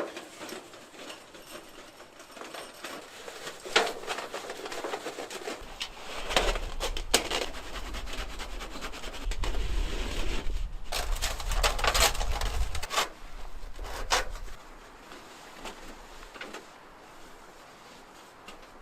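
Handling of camping gear while a wood stove is set up: rustling, with a few scattered knocks and clicks and a low rumble through the middle.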